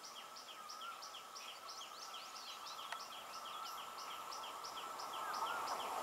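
A bird calling in a steady run of short high chirps, about three a second. Underneath, the noise of an approaching EMU electric local train grows gradually louder.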